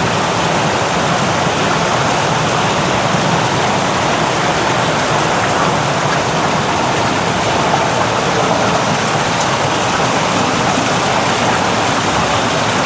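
Steady rush of falling, splashing water from a garden water feature.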